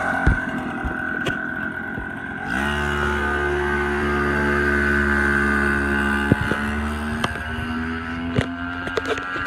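Mini bike's small engine running. About two and a half seconds in, its pitch drops and it settles to a steady idle, rising slightly near the end, with a few sharp clicks along the way.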